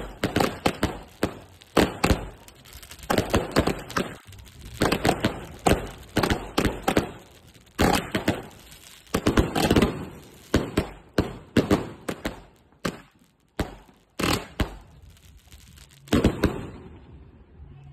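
Fireworks going off: a rapid run of sharp bangs and cracks, some in quick clusters, that stops abruptly near the end.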